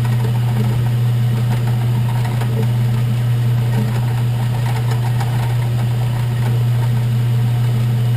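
Workshop machine's electric motor running steadily with a loud, even low hum.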